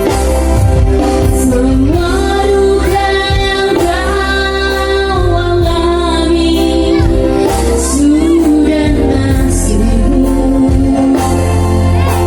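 A solo singer holding long notes with vibrato over backing music with a heavy, steady bass.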